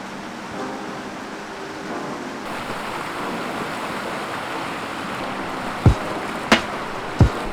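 Steady rush of a river flowing, with three sharp knocks in the last second and a half.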